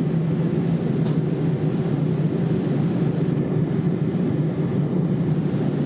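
Steady cabin noise inside a Boeing 787-8 airliner in flight: an even rush of airflow and engine noise with a constant low hum.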